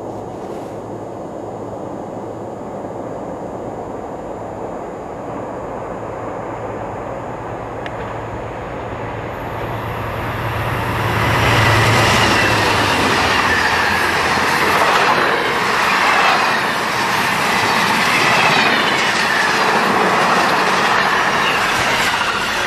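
Amtrak passenger train led by two GE Genesis diesel locomotives approaching with a steady engine drone, then passing close about eleven seconds in. Loud rolling wheel noise and clickety-clack over the rail joints follow, with thin wheel squeal as the cars go by.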